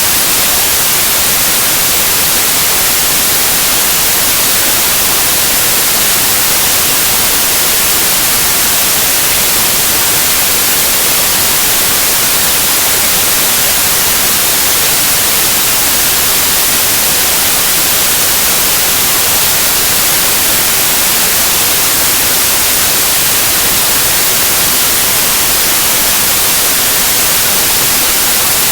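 Steady white noise: an even, unbroken hiss, brightest in the treble, played as a baby sleep aid.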